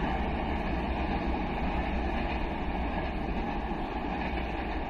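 A passenger train rumbling along the rails as it moves away, a steady wheel-and-track rumble that slowly fades.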